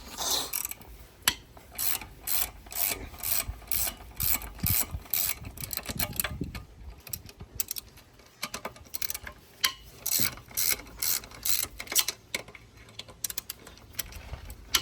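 Hand socket ratchet clicking in quick runs of strokes with short pauses, backing out a bolt on a car's engine bracket.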